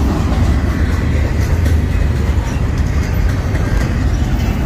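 Double-stack intermodal freight cars rolling past close by: a steady, loud rumble of steel wheels on the rails.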